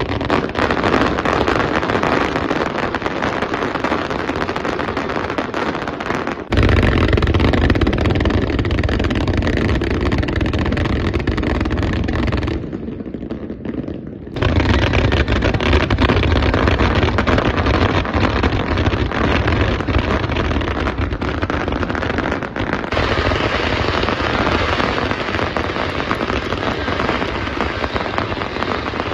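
1.3G display fireworks firing in a dense, continuous barrage of rapid crackling and bangs. The sound changes abruptly about six seconds in, getting heavier and deeper, and there is a quieter stretch of about two seconds near the middle.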